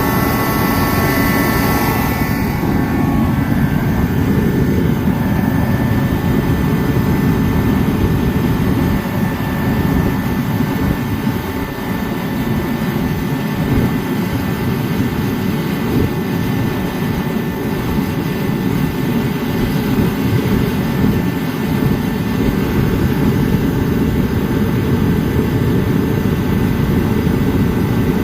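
Dyna-Glo KFA80H 80,000 BTU forced-air heater running steadily, its burner and fan making a continuous jet-like rush, with a few thin higher tones that fade out about two seconds in. It is burning diesel and has never had its filters, nozzle or igniter serviced.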